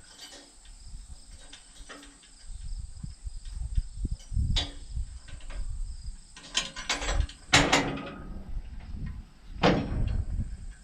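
A few sharp knocks and clatters, one about four and a half seconds in, a cluster around seven to eight seconds and one near the end, over low rumbling handling noise, with crickets chirping steadily in the background.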